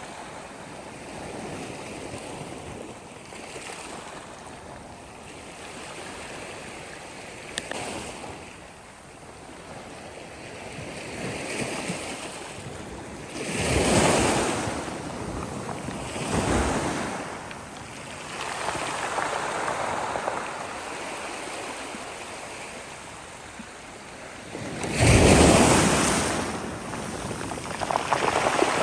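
Sea waves breaking and washing onto a shore, a steady rush that swells with each wave: two surges a little before halfway, a third about three-quarters through, the loudest.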